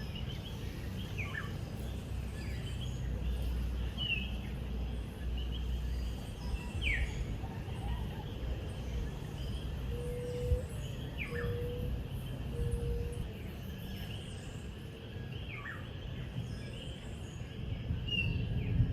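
Birds calling: short descending whistled notes repeat every second or two, with a few short, steady, lower notes in between, over a steady low rumble.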